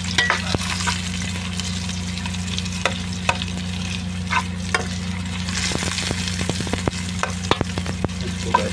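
Garlic, ginger, onion and chili sizzling in hot oil in an aluminium pot while a metal spoon stirs them, scraping and clicking against the pot now and then. A steady low hum runs underneath.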